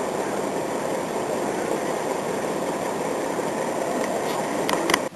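Heavy vehicle running with a steady, even rumble, with a few short clicks near the end.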